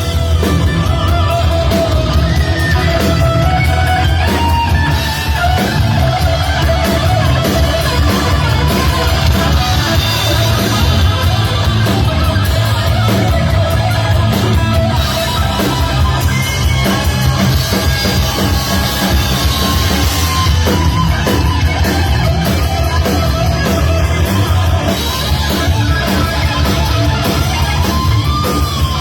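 Live hard rock band playing, with an electric guitar lead line over drums and bass guitar.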